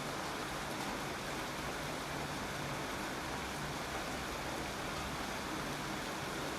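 Steady rainfall, an even hiss of falling water that holds at a constant level.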